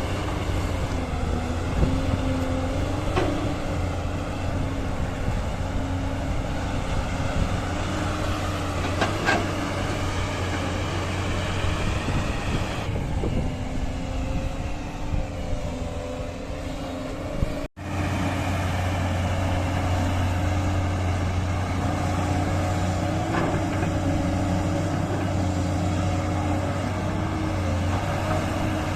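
Diesel engine of heavy earth-moving machinery running steadily as it works, with a few sharp knocks. The sound cuts out for an instant a little past halfway.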